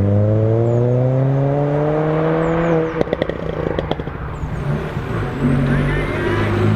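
A car engine accelerating hard, its pitch rising steadily for about three seconds, then the throttle closes and a quick series of sharp exhaust crackles follows. Another car's engine comes in near the end.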